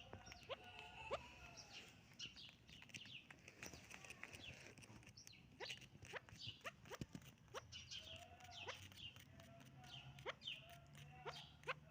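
Chukar partridges calling: many quick, sharp notes in an uneven run, over some fainter wavering calls.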